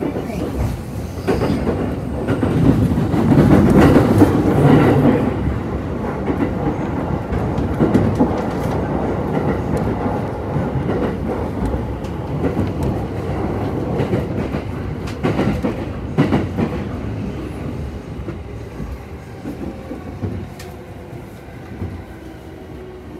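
Train running noise heard from inside a carriage: wheels rumbling on the rails with a few sharp clicks over joints, loudest a few seconds in, then growing quieter as the train slows into a station.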